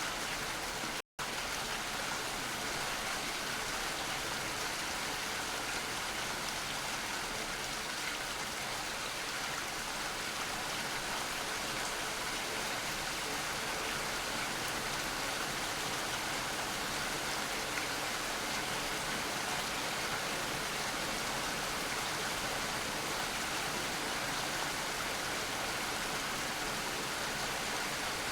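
Steady, even rain, with a brief total dropout about a second in.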